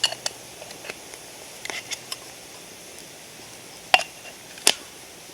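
A few scattered sharp clicks and light knocks, about half a dozen over five seconds, with the two loudest near the end.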